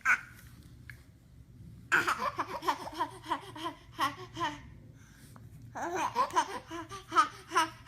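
Laughter in two bouts of quick, short laughs, the first starting about two seconds in and the second near six seconds, with a short pause between.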